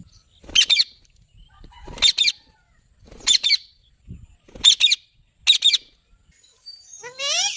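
Pet parrot giving five short, high-pitched chirps about a second apart, then a rising whistled call near the end.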